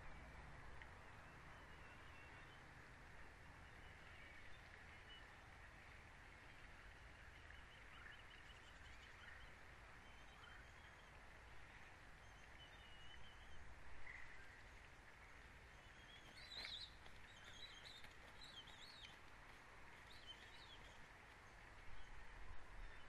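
Faint outdoor ambience: a steady low hiss with scattered high bird chirps, a brief trill early on and a small cluster of chirps about two-thirds of the way through.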